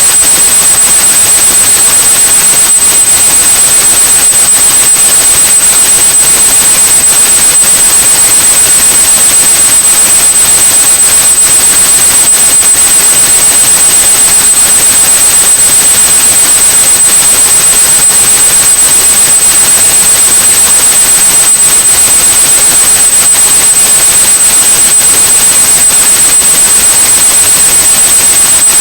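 A steady, high-pitched 8100 Hz sine tone over loud, even white-noise hiss: a synthetic tinnitus-masking sound.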